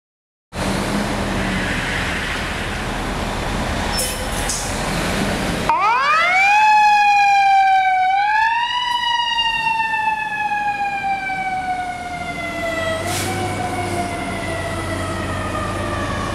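The 1978 American LaFrance fire truck's siren winding up steeply about five seconds in, dipping briefly and climbing again, then slowly falling in pitch as it winds down. A steady rushing noise comes before it.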